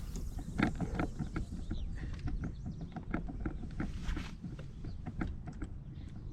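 Irregular light knocks and clicks of gear being handled on a kayak, with small birds chirping in the background.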